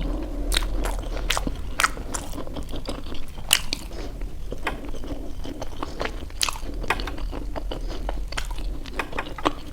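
Close-miked eating of momo dumplings: chewing and biting with irregular sharp clicks, over a low steady hum of background noise.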